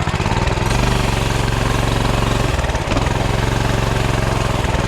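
Coleman CT200U mini bike's small single-cylinder engine running under throttle. It picks up about a second in, dips briefly near the middle, then holds steady.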